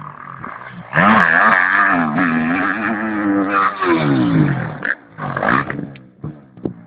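Motocross motorcycle engine revving loudly, its pitch rising and falling with the throttle, then dropping away about four seconds in and carrying on fainter.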